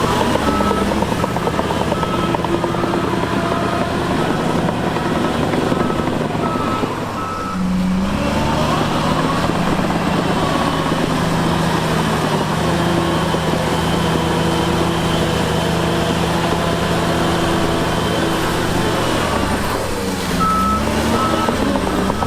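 Heavy diesel earthmoving machinery running, with its engine pitch rising and falling under load. A reversing alarm beeps steadily for the first seven seconds or so, stops while the engine runs on, and starts beeping again near the end.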